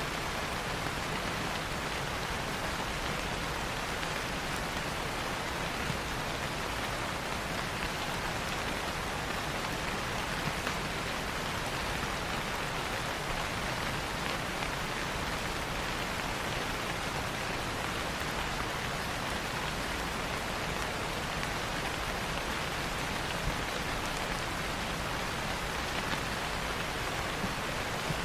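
Steady rain falling, a dense even hiss of drops on a surface.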